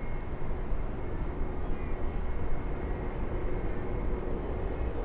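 Jet airliner engines running with a steady rumble and a faint high whine held on one pitch.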